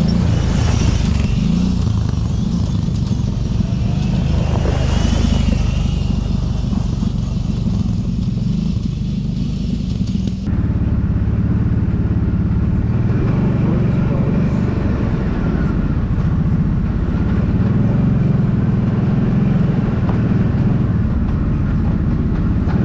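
Kawasaki Brute Force 750 ATV's V-twin engine running steadily under way on a trail, with a rumble loud in the low end.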